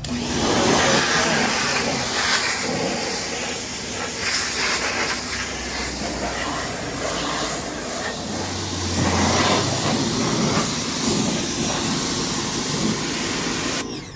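Steady high-pressure jet hissing as it cleans the underside of a lawnmower deck, cutting off suddenly at the end.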